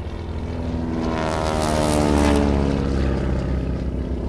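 A propeller-driven airplane flies past. Its engine note grows louder to a peak a little past the middle, then drops in pitch and fades as it goes away.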